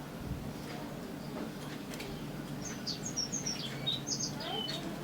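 A songbird, likely a brown-chested jungle flycatcher (SRDC), giving a quick run of short, high chirps a little past halfway, over a low steady hum.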